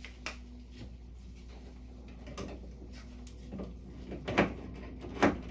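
Pliers clicking and knocking against a metal junction box and the nut of an MC cable connector being tightened: a few scattered sharp clicks, the loudest a little past four seconds in.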